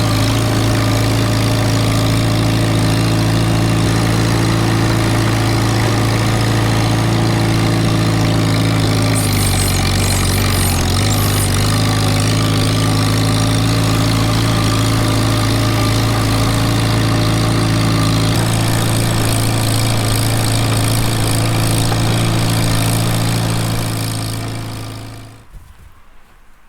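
Small tractor's engine running steadily close by, its note shifting slightly about ten seconds in and again a little later, then dying away near the end.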